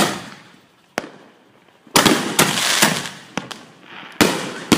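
Consumer fireworks going off: a sharp bang, a single crack about a second later, then a quick run of bangs with crackling, and one more bang near the end.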